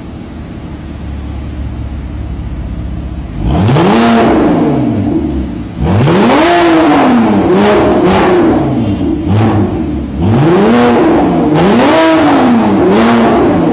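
Porsche Boxster S flat-six engine breathing through an aftermarket dual-exit valvetronic exhaust. It idles, then from about three seconds in is revved in three loud bursts of quick rising and falling blips, and drops back toward idle near the end.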